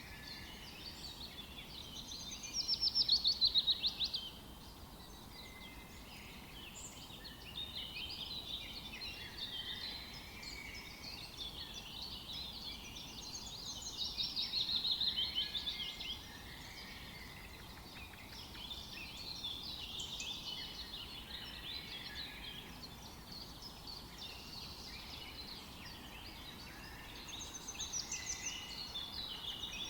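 Several songbirds chirping and singing together in a continuous chorus, with a louder rapid trill about three seconds in, another around the middle, and another near the end.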